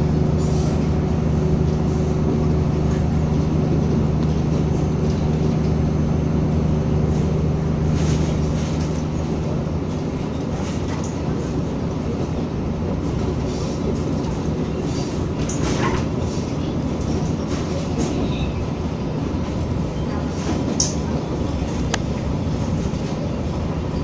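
Materfer diesel railcar CM-2503 running along the line. Its engine hum is steady for the first several seconds, then gives way to a rougher rumble of wheels on rail with scattered clicks and a brief squeal about 16 seconds in.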